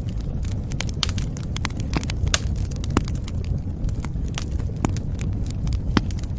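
Wood fire crackling in a fireplace: frequent irregular sharp pops and snaps of varying loudness over the steady low noise of the burning fire.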